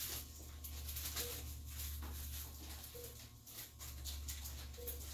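Crinkling and rustling of sterile packaging and wrappers being handled and opened, in many short irregular strokes. A faint short beep repeats about every two seconds over a steady low hum.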